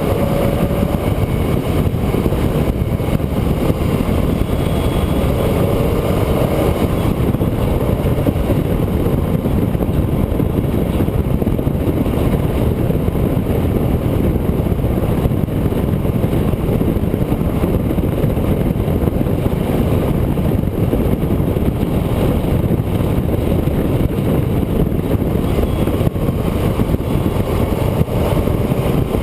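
A road vehicle driving along, with a steady rush of road and wind noise over its running engine. The engine note rises briefly twice, about a second in and again around six seconds in.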